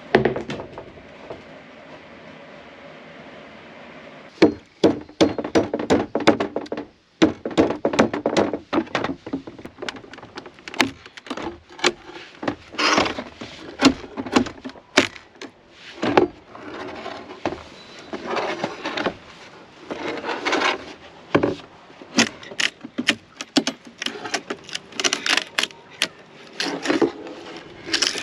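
Irregular wooden knocks, taps and clatter from wood being worked and handled, starting about four seconds in after a steady low hum.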